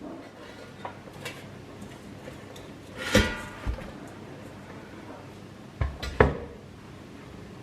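Kitchen cookware being handled. About three seconds in there is a metallic clatter with a brief ring and a smaller knock just after it, then two more knocks near six seconds.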